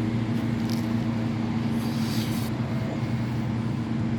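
Steady engine hum that holds one pitch throughout, with a brief hiss of passing noise about two seconds in.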